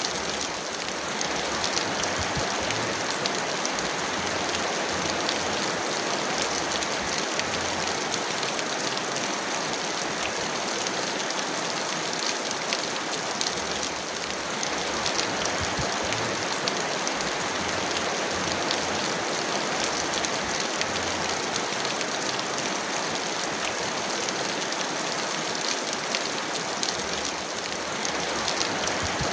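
Heavy rain falling steadily: a dense, even hiss of rain with many close individual drop ticks, and no thunder.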